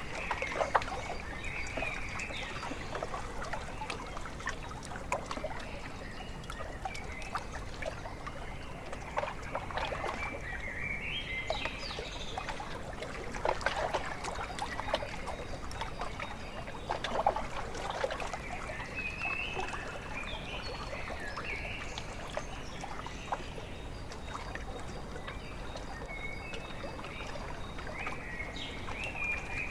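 Small waves lapping and splashing at a lakeshore, with birds calling in short chirping phrases a few times.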